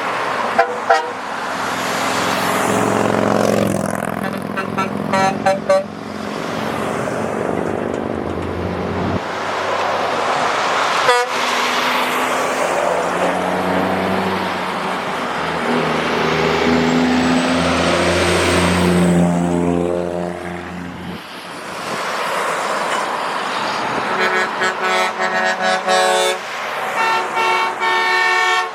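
Trucks in a convoy sounding their air horns over engine and road noise: long held blasts in the middle, and rapid repeated honks in bursts near the start and near the end.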